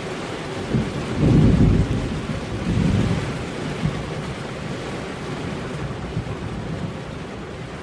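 Steady rain with a rumble of thunder that swells about a second in, rolls on for a few seconds and dies away.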